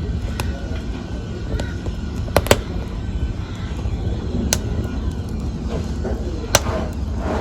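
Wood fire in a fireplace burning with a steady low rumble, broken by sharp crackles and pops every second or so, the loudest a pair about two and a half seconds in and another about six and a half seconds in.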